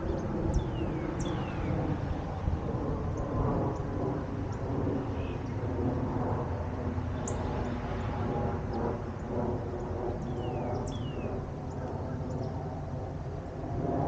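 Wild birds calling in the countryside: pairs of short falling whistles near the start and again about ten seconds in, with scattered brief high chirps, over a steady low rumble.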